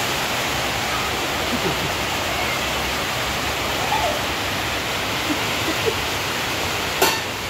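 Steady rain falling, an even hiss, with a brief click near the end.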